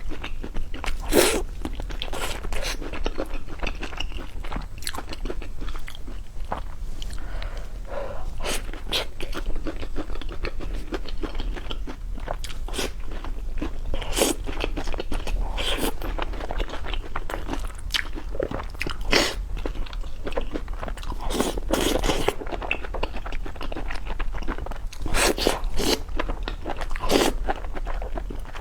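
A person biting and chewing crunchy food close to the microphone, with loud irregular crunches every second or so.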